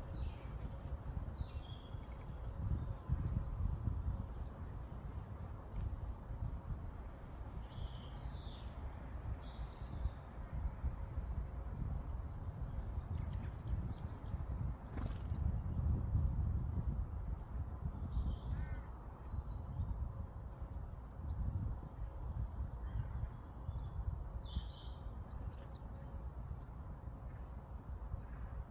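Many birds calling, short high-pitched calls coming every second or so, over a steady low rumble.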